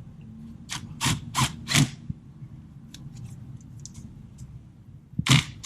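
A ratchet wrench is worked on a 10 mm battery terminal nut, tightening the clamp onto the post. It gives four quick ratcheting strokes about a second in, a few faint clicks, then another stroke near the end.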